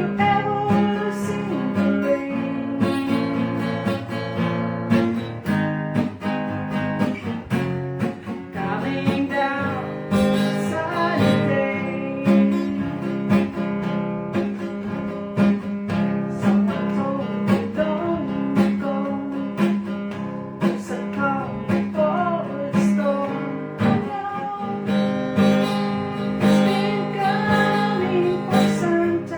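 Music played on acoustic guitar, strummed in a steady rhythm.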